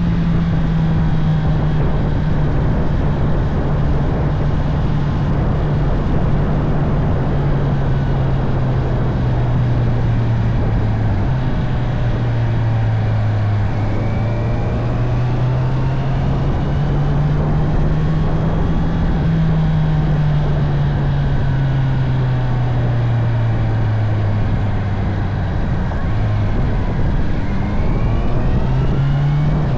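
Honda CB650R's inline-four engine running under way, its note slowly rising and falling with the throttle, with a couple of brief dips like gear changes, over steady wind and road noise.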